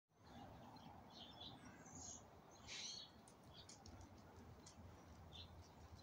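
Small birds in a flock calling faintly: scattered short high chirps and ticks, the loudest nearly three seconds in.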